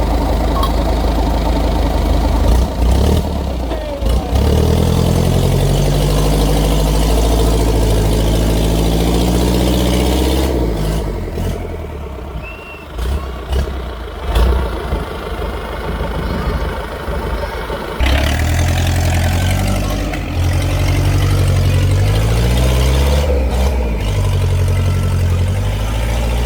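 Tractor engines running hard and revving, their pitch rising and falling. Partway through it drops quieter and uneven for several seconds, then a loud engine comes back abruptly.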